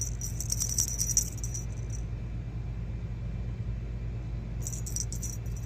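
Light metallic jingling in two spells, over the first two seconds and again near the end, above a steady low hum.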